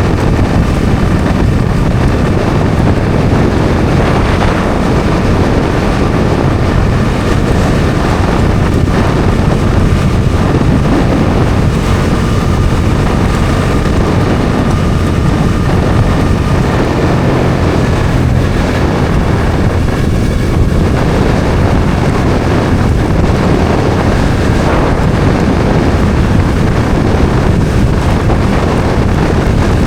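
Bajaj Dominar 400's single-cylinder engine running steadily at road speed, mixed with heavy wind noise on the microphone.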